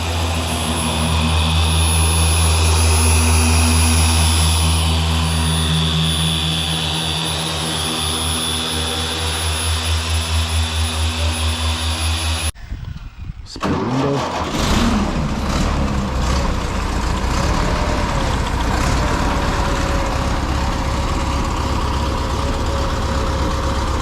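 A car engine running steadily with a low, pulsing hum. About halfway through, the sound cuts off abruptly and gives way to a rougher, noisier stretch of engine sound.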